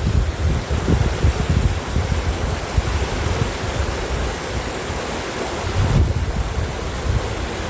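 Wind buffeting the microphone in uneven gusts, over a steady rush of water from a mountain valley stream.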